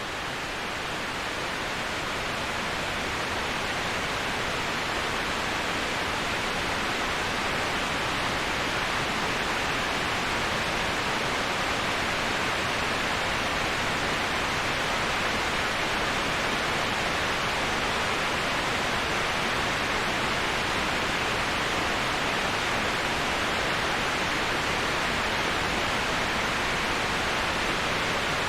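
Steady, unbroken rushing of a waterfall, a dense even hiss strongest in the upper-middle range. It swells slightly over the first few seconds, then holds level.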